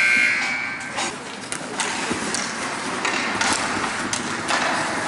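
A long, steady, high-pitched whistle blast that stops about a second in, followed by background noise with scattered short knocks.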